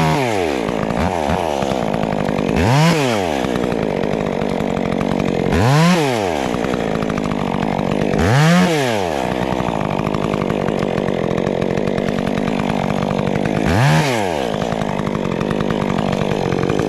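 Stihl MS 400 C chainsaw running, its engine revs briefly rising and falling about five times between steadier stretches.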